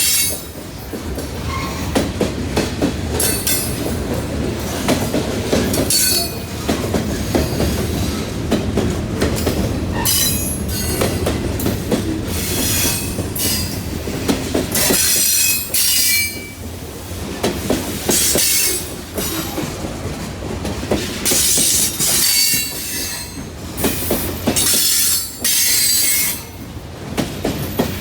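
Blue Ridge Southern train's cars rolling past with a steady low rumble and clickety-clack over the rail joints. High-pitched wheel squeals come and go every second or two.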